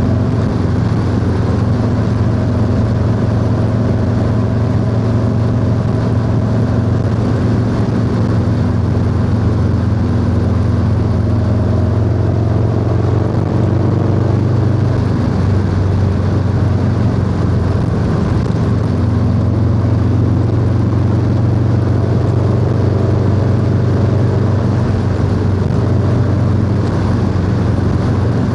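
Harley-Davidson Low Rider S V-twin with a 2-into-1 exhaust, running steadily under way at cruising speed. The engine note shifts about halfway through, then settles again.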